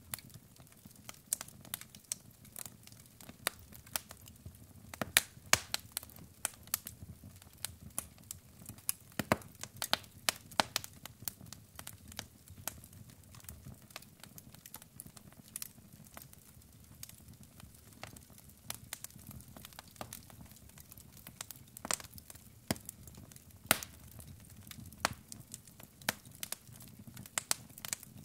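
Wood fire burning in a fireplace: logs crackling and popping in irregular sharp snaps over a low rumble of the flames.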